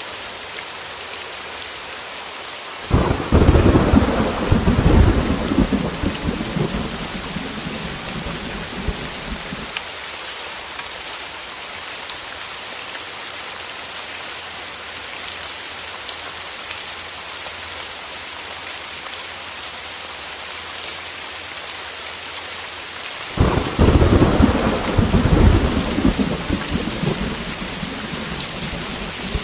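Steady heavy rain hissing, with two sudden thunderclaps, one about three seconds in and one near the end, each rumbling low and fading over several seconds.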